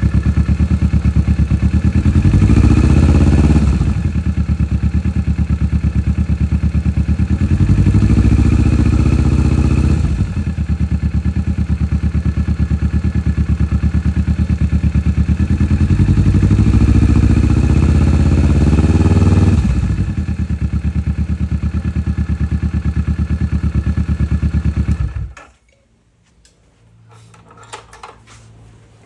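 Kawasaki Vulcan S 649 cc parallel-twin engine running on fresh oil after an oil change, with the throttle twisted three times so the revs rise and hold for a few seconds before dropping back to idle. The engine shuts off suddenly about 25 seconds in, leaving a few faint clicks.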